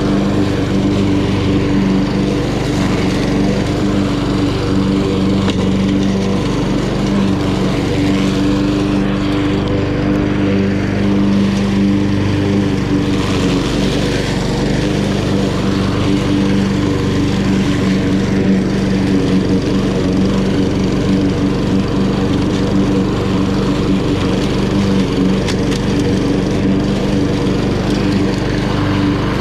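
Honda HRN216 lawn mower's GCV170 single-cylinder four-stroke engine running steadily at mowing speed while cutting grass.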